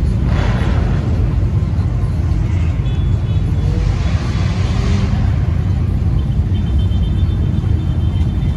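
Steady low car rumble, with a short burst of hiss about half a second in and another around four seconds in.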